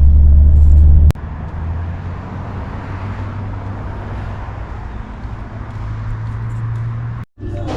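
Car driving, heard from inside: loud low road rumble that cuts off abruptly about a second in, followed by a quieter steady hum with a low drone.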